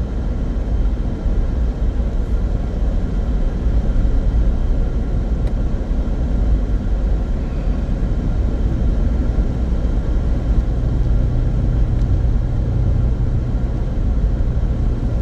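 Steady road and engine rumble inside the cabin of a small car driving along a road.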